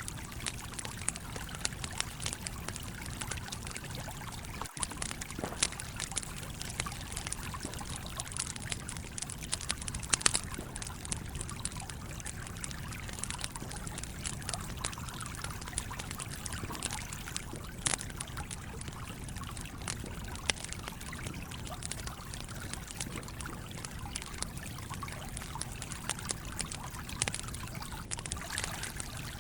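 Campfire crackling, with frequent sharp pops and snaps, a few louder ones about ten seconds in, over the steady flow of a trickling stream.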